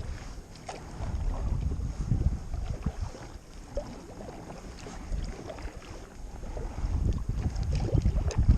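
Kayak paddling: paddle strokes splashing in the water, with wind buffeting the microphone in gusts that swell about a second in and again near the end.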